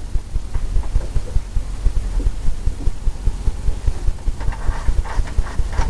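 Paintbrush working oil paint on a canvas: a rapid, regular series of dull thumps, about four a second, as the brush is tapped and scrubbed to blend the paint.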